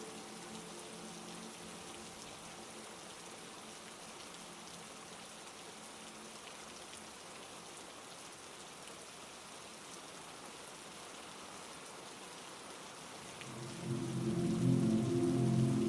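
Steady heavy rain falling. Low sustained musical tones fade out in the first few seconds, and a louder low drone comes in near the end.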